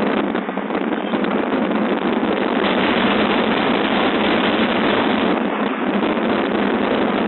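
Hurricane simulator's blowers driving a strong, steady rush of wind that buffets the microphone.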